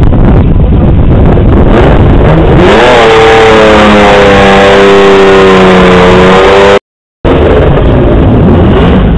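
BMW E36 3 Series sedan's engine at a drag-strip start line, revved up about three seconds in and held at high, steady revs for several seconds over a loud low rumble. The sound drops out for a moment near seven seconds, then the loud rumble returns.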